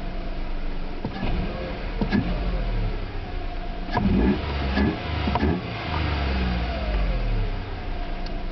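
Skoda Fabia 1.2 HTP three-cylinder petrol engine, fitted with a sport air filter, being revved repeatedly, the revs rising and dropping back. There are several quick, sharp blips of the throttle about halfway through.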